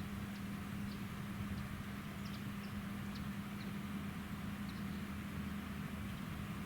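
John Deere X9 1100 combine harvester running steadily while combining oilseed rape, a constant mechanical drone with a steady low hum. A few faint, short, high ticks are scattered through it.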